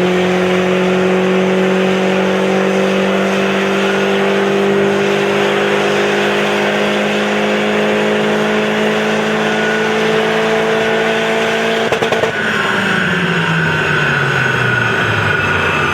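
Peugeot RCZ's turbocharged 1.6 THP four-cylinder through a Supersprint full exhaust, pulling at full throttle on a dyno, its note rising slowly and steadily for about twelve seconds. Near the end a brief crackle comes as the throttle closes, and the revs fall away over a few seconds with a higher whine over them.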